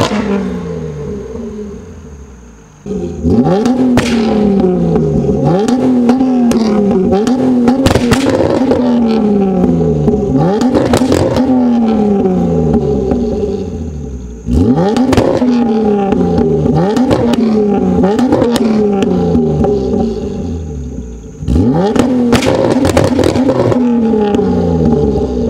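Subaru SVX's 3.3-litre flat-six, on stock headers with a Y-pipe (no main cat) into a Stebro resonator and muffler, revved up against a Bee R 2-step launch-control rev limiter three times. Each time the revs climb sharply, then saw up and down on the limiter with burping pops and cracks from the exhaust, and drop back in between.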